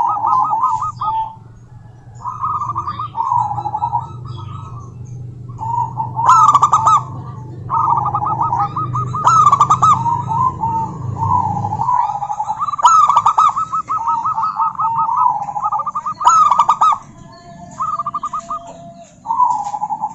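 Female zebra dove calling, repeating rapid staccato cooing phrases with short pauses between them. A low hum runs underneath until about twelve seconds in, then stops.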